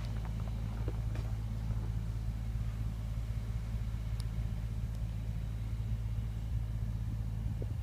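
Heavy diesel truck engine, the Western Star's Cat 3406E, idling steadily with a low, even hum. A few faint clicks sound about a second in.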